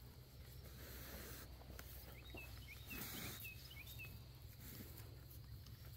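Faint outdoor ambience: a small bird gives a quick series of short high chirps starting a bit over two seconds in and lasting about two seconds, over a steady low hum.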